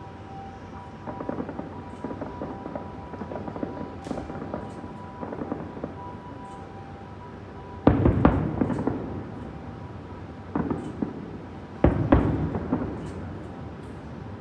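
Fireworks going off: a stretch of fine crackling, then two loud booming bursts about four seconds apart, with smaller bangs between them.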